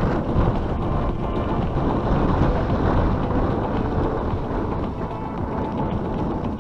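Steady, loud low rumbling noise, with background music faintly underneath.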